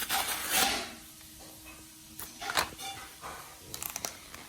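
Plastic blister packaging of a toy car crinkling and clicking as a child works at opening it. There is a rustle at first, then scattered sharp crackles.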